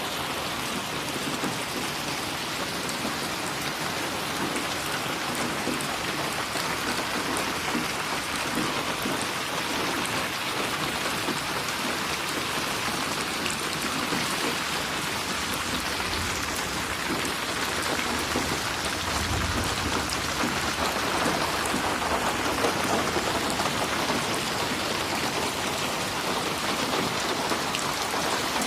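Steady rain falling and splashing on a surface, an even hiss of many drops, with a soft low rumble about two-thirds of the way in.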